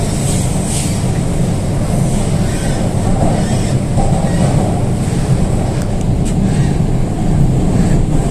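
MTR K-train running at speed through a tunnel, heard from inside the car: a loud, steady rumble of wheels on rail, with a few light clicks about six seconds in.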